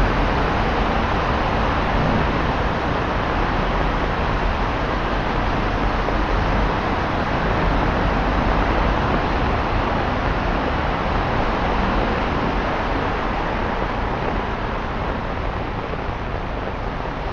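Steady hiss of traffic on a rain-soaked, flooded road: vehicle tyres swishing through standing water as rain falls. It eases off a little near the end.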